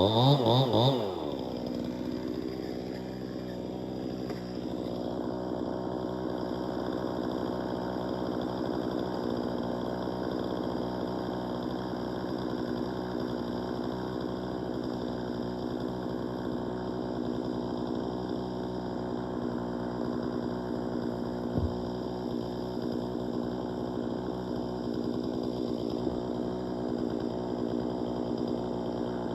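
Two-stroke chainsaw engine coming off full throttle, its pitch falling over the first second, then idling steadily. A single short knock is heard about two-thirds of the way through.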